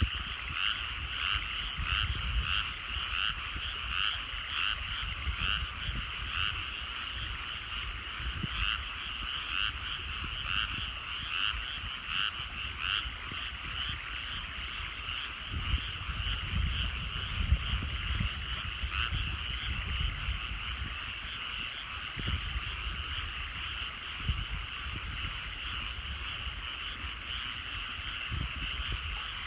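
Chorus of many frogs calling from a rice paddy, a rapid run of calls about twice a second over a dense steady background chorus. A low rumble comes and goes underneath.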